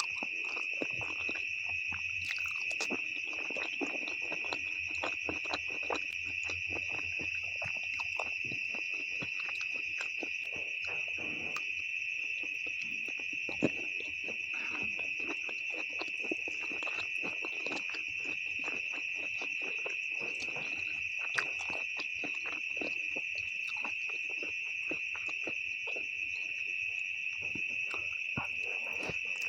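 Close-miked eating of instant noodles with beef: many short clicks, slurps and chewing noises, with two sharper knocks about 14 and 21 seconds in. Under it all runs a steady high-pitched background drone, like crickets chirring.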